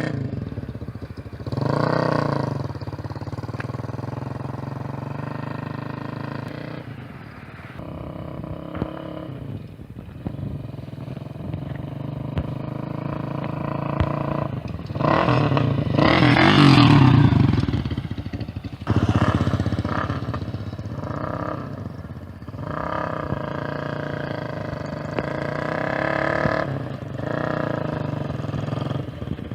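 Custom cafe racer built on a Bajaj Caliber, its single-cylinder four-stroke engine running while the bike is ridden, the revs rising and falling in several swells. The loudest swell comes about sixteen seconds in.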